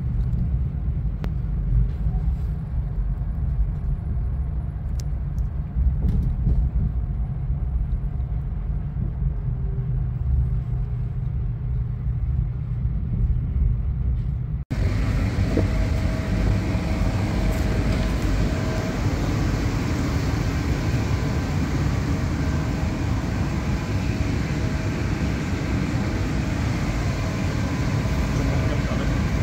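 Low rumble inside a high-speed train's carriage as it arrives in the station. About halfway through, the sound cuts to a steadier hum and hiss on the platform beside the stopped train.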